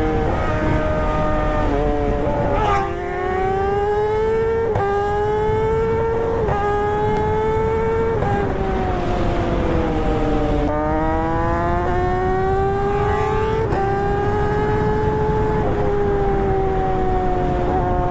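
Motorcycle engine accelerating hard through the gears: the pitch climbs and drops suddenly at each upshift several times, eases down about halfway through, then climbs again, over a steady rush of wind.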